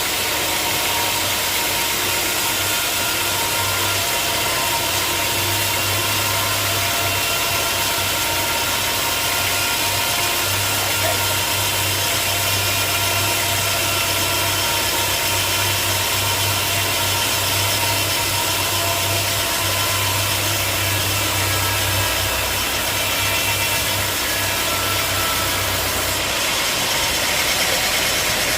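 Sawmill running: a steady engine hum under the noise of the saw blade cutting through a log, with the low engine note changing near the end.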